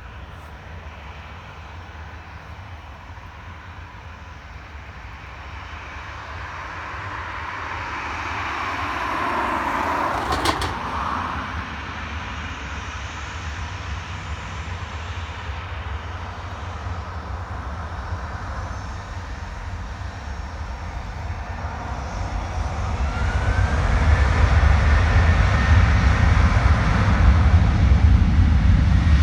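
Aircraft engines passing close: the noise swells to a peak about ten seconds in, its pitch falling as the aircraft goes by. From about two-thirds of the way through, aircraft engine noise builds again, with a brief rising whine and a deep rumble that stays loud to the end.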